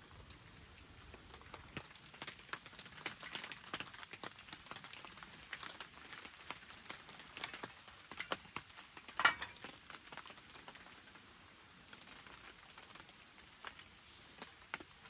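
Scattered raindrops tapping on a tent, irregular and faint, with one much louder tap about nine seconds in.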